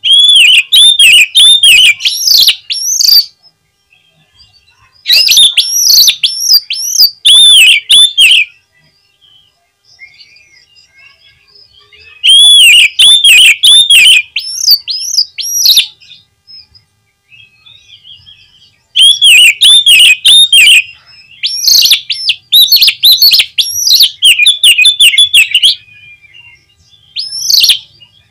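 Oriental magpie-robin (kacer) singing loudly in bouts of rapid, repeated whistled notes, about four bouts of a few seconds each with pauses between, and one short note near the end.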